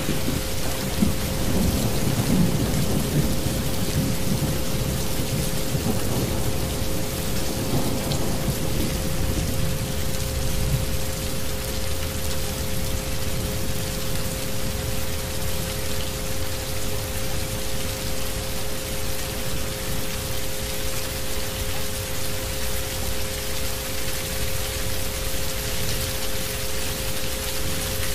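Steady rain with a low roll of thunder that fades out over roughly the first ten seconds. Two steady tones, the track's isochronic frequencies, hum on under the rain.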